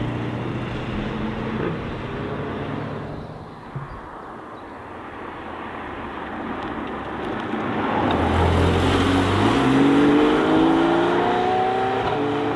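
Car engines: one engine fades away over the first few seconds. About eight seconds in, another engine grows loud and accelerates, its pitch rising steadily.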